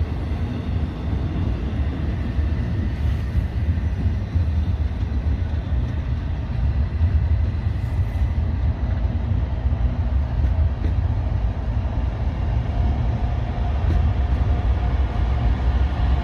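Long freight train rolling slowly past, with its diesel locomotive and cars making a steady low rumble.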